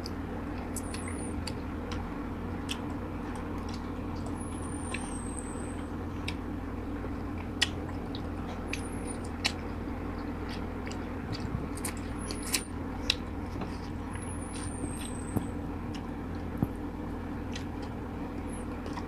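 Close-up chewing and wet mouth clicks from eating soft rambutan fruit, scattered over a steady low hum.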